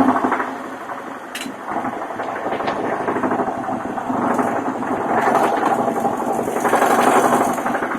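UZAM-412 four-cylinder engine running with a connecting-rod knock on cylinder 4: a worn rod bearing. The revs drop back about a second in, then rise again in two swells.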